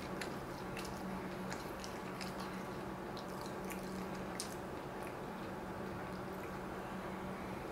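Faint chewing of a mouthful of chicken sandwich: scattered soft mouth clicks over a steady low hum.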